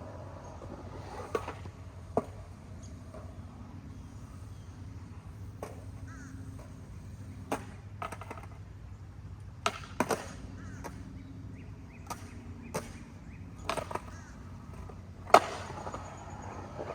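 Skateboard wheels rolling over concrete in a steady low rumble, broken every second or two by sharp clacks of the board's tail and wheels striking the ground during tricks; the loudest clack comes near the end.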